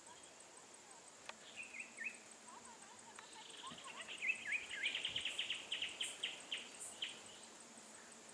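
A steady, high insect drone with a bird calling over it: a few chirps, then a quick run of sharp repeated notes from about four to seven seconds in.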